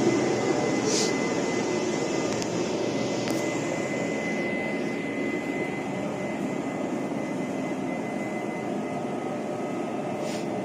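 Railway train noise: a steady low rumble with a thin constant high tone, slowly getting quieter.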